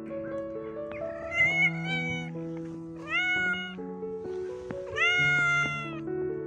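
A domestic cat meowing three times, each call about a second long, over background music with a simple melody.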